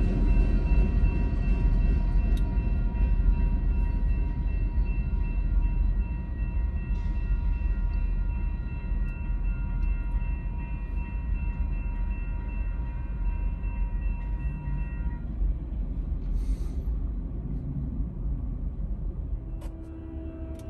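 Low rumble of a train on the line, slowly fading, with a faint steady ringing tone underneath that stops about three-quarters of the way through. A train horn starts right at the very end.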